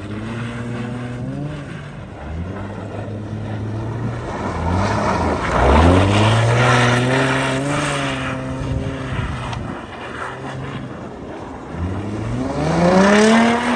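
Infiniti G35 coupe's 3.5-litre V6 revving up and down as the car slides through wet snow with its rear wheels spinning. The hardest rev comes about six seconds in and is held for a few seconds, and another sharp rev comes near the end.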